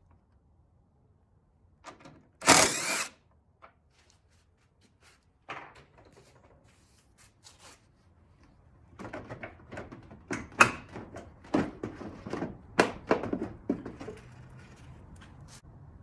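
Hand tools working on the headlamp's 13mm bolts: a short loud burst about two and a half seconds in, then scattered clicks and, from about nine seconds, an irregular run of clicking and knocking.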